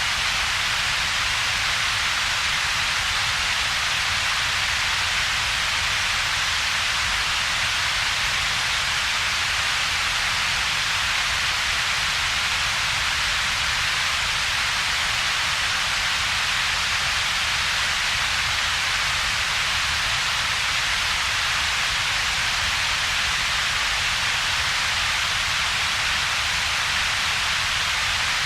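Synthetic double-peaked coloured noise: a steady, unchanging hiss, loudest in one broad band of upper-middle pitches, with a second, weaker band of low rumble beneath it and a hollow gap between the two.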